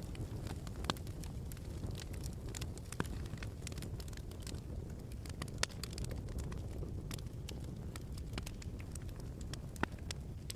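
Crackling log fire: a steady low rumble of burning with sharp pops and snaps scattered irregularly through it.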